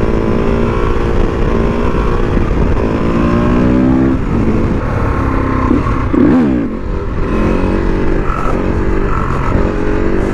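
Husqvarna SMR 510 supermoto's single-cylinder four-stroke engine running under way. About six seconds in the revs climb sharply and drop back, then it runs steadily again.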